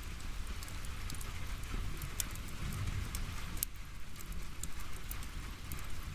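Firewood burning in an open fire: a continuous crackle with many irregular sharp pops, one of the louder ones a little past the middle, over a low steady rumble.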